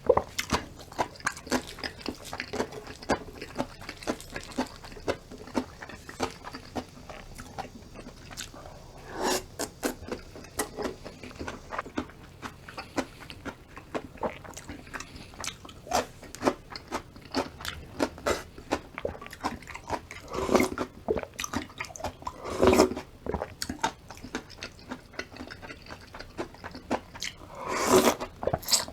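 Close-miked chewing and crunching of Korean food: raw radish salad bibimbap with crisp vegetables, a steady run of small crunches and mouth clicks with a few louder bites along the way.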